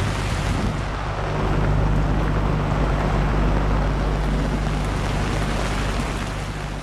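Heavy rain falling on a sailboat's canvas bimini and deck, mixed with wind and sea noise, over a steady low drone.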